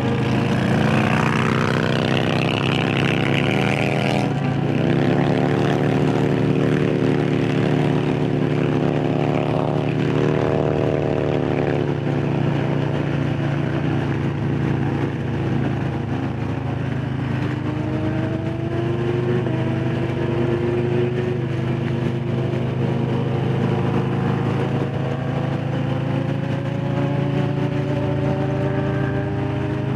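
Harley-Davidson Low Rider S's Milwaukee-Eight V-twin engine running under way at riding speed, with wind rush. Its pitch changes suddenly about four seconds in, dips around twelve seconds, then climbs slowly through the second half as the bike speeds up.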